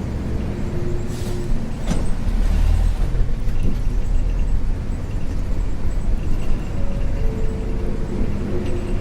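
Isuzu U-LV224N bus's 6QB2 diesel engine running under way, heard from inside the cabin as a steady low drone, with a sharp click about two seconds in.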